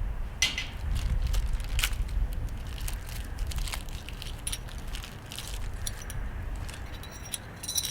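Scattered clicks and crinkling from handling small grill parts, with a brief metallic clink near the end, over a steady low rumble.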